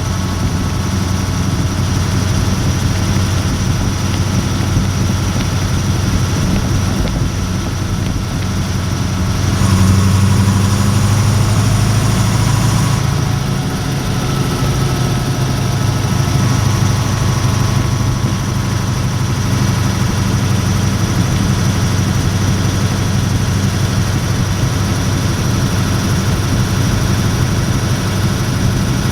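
Perkins 540 cubic-inch V8 diesel engine of a Leyland Mastiff truck running under way, heard from inside the cab as a steady low drone. About ten seconds in the engine noise grows louder for a few seconds, then eases off again.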